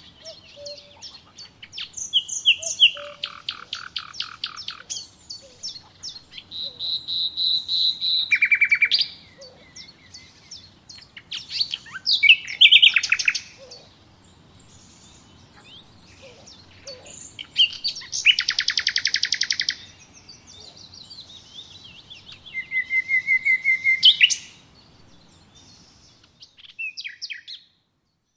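Songbirds singing, one phrase after another: fast trills, chirps and a few held whistled notes, with short pauses between phrases.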